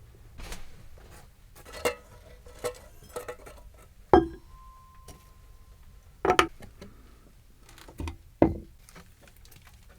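Irregular knocks and clinks of hard objects being handled, the loudest about four seconds in followed by a short ringing tone, with two more strong knocks later.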